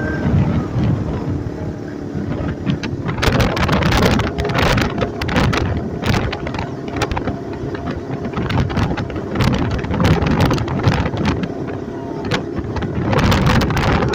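Wind buffeting and crackling on the microphone of a moving motorcycle, over a low rumble of the bike and its engine. The crackles come in rapid clusters from about three seconds in.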